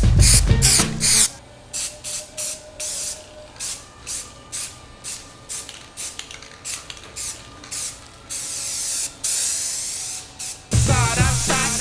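Aerosol spray paint can hissing in a run of short bursts, then two longer sprays near the end.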